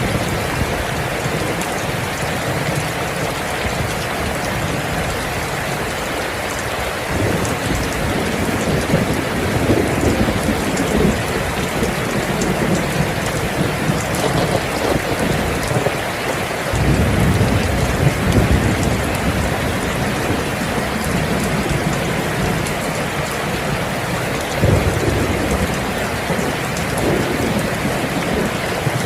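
Steady heavy rain with rolling thunder. Low rumbles swell and fade, the strongest coming in suddenly a little past halfway, with another shorter one near the end.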